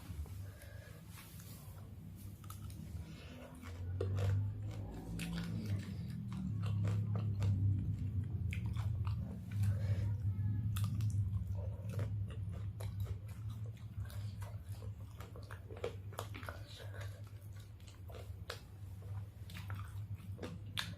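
A person biting and chewing crispy fried chicken, with many small wet crunches and clicks, louder from about four seconds in.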